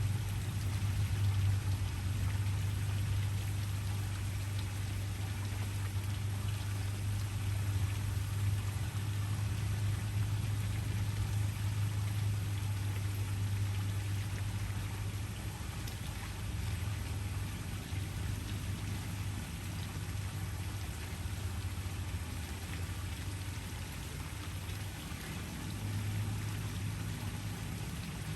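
Waterfall: steady rushing and splashing of falling water, with a low rumble underneath.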